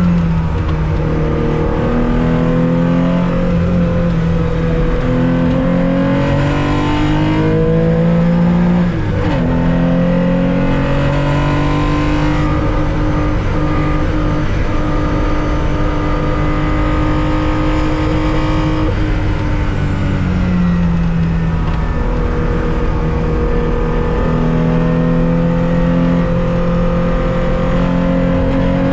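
Air-cooled 2.0-litre flat-six of a 1965 Porsche 911 at racing speed, heard from the cockpit: the engine note climbs and holds high, dropping briefly in pitch twice, about a third and about two-thirds of the way through, as the driver changes gear, then climbing again. Wind and road noise run underneath.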